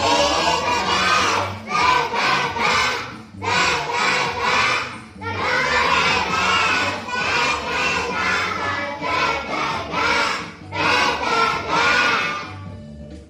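A group of young children singing loudly together over accompanying music, in phrases with short breaks between them; the singing stops near the end.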